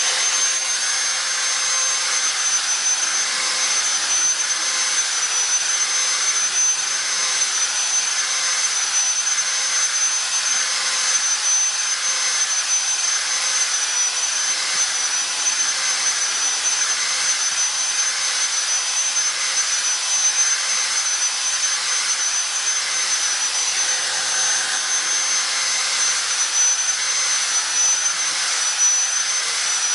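A small high-speed electric tool running steadily with a high, even whine and hiss, rounding off octagonal bird-cage bars.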